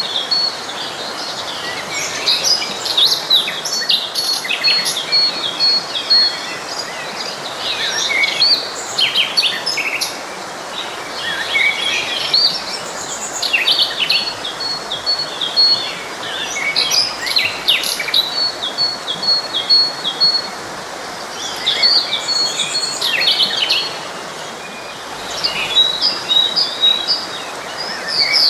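Several songbirds singing and chirping over the steady rush of a forest stream; one bird repeats a high, rapid run of even notes several times.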